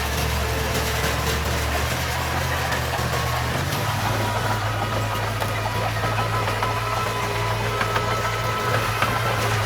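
Diesel engine of heavy earthmoving machinery running steadily; its low note shifts upward a little about four seconds in.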